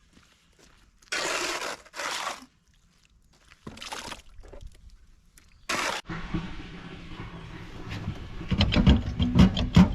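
Several short bursts of hissing, then about six seconds in the power washer's diesel engine starts and runs, getting louder, with a fast rhythmic knocking from near the end.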